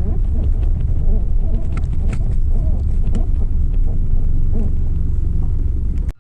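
Steady low engine rumble of a running motor, cutting off abruptly near the end.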